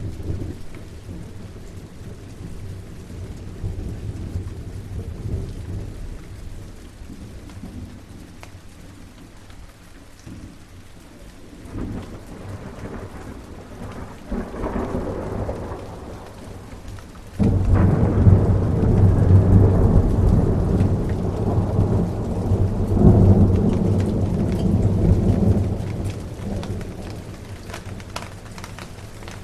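Steady rain with rolling thunder. A low rumble builds about halfway through, then a loud thunderclap breaks suddenly and rumbles on for several seconds before fading back under the rain.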